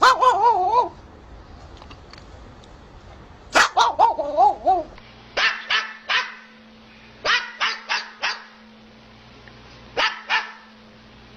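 A dog giving two wavering, warbling howl-like calls, then short sharp barks in quick groups of three, four and two.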